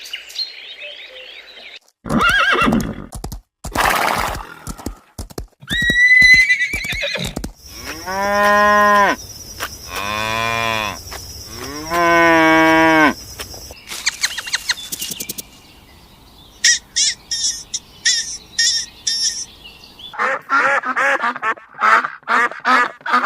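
A string of farm-animal calls edited one after another: a few short sharp calls early on, then three long, drawn-out calls in the middle, and a run of rapid short calls near the end.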